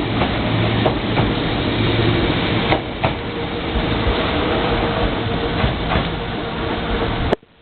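Meitetsu 7000 series Panorama Car electric train running on the track: a steady, loud running noise with a few sharp clicks. It cuts off abruptly near the end.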